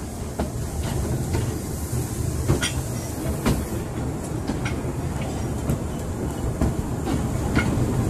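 Narrow-gauge train running slowly over track and points, with a steady low rumble and irregular sharp clicks of the wheels crossing rail joints.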